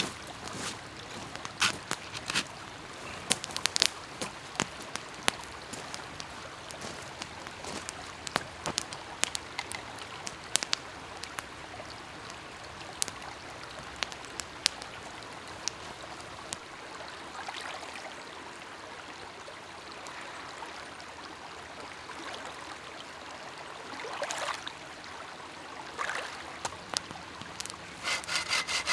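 Steady rushing like running water, with scattered light clicks and knocks. Near the end a saw starts cutting wood in quick, even strokes.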